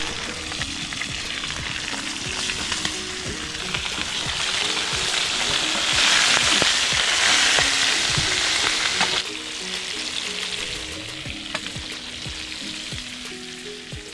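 Scored, seasoned redear sunfish frying in hot oil: a steady sizzle that swells about six seconds in and drops back at around nine seconds.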